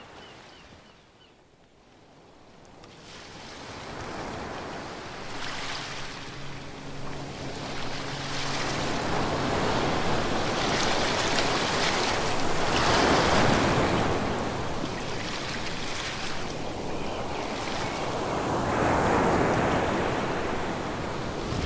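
Ocean waves washing onto the shore: the surf builds from a lull at the start into rolling swells, loudest about two thirds of the way in and again near the end.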